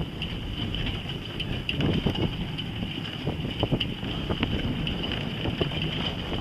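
Wind buffeting the microphone as a steady low rumble, with many small clicks and rattles through it.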